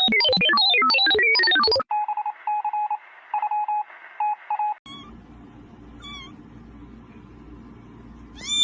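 A fast run of electronic notes, then a string of steady on-off electronic beeps like phone keypad tones. After that come a couple of short cat meows, and a rising one near the end.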